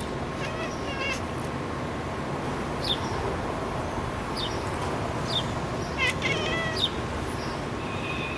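Cat chirping and chattering at birds in short clusters of quick chirps, about a second in and again about six seconds in, with a few single chirps between, over steady background noise.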